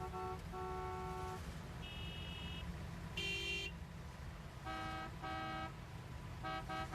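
Several car horns honking one after another, longer blasts and short toots at different pitches, over a steady low rumble of car engines.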